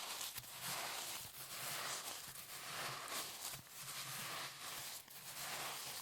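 Close-up handling noise during food preparation: soft gritty rustling and scraping in repeated strokes about a second apart.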